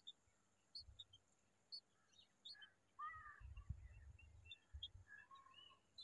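Faint bird chirps: short high peeps about once a second, with a couple of lower curved calls about three seconds in and a low rumble through the middle.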